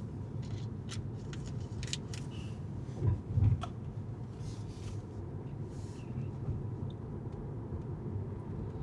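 Car driving on city streets: a steady low road and engine rumble with scattered faint clicks and ticks. Two low thumps about three seconds in.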